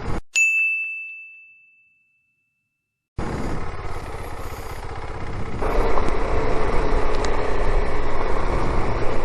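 A single bright ding that rings and fades over about two seconds against dead silence, then motorcycle riding noise with wind. The riding noise cuts back in abruptly about three seconds in and grows louder about halfway through.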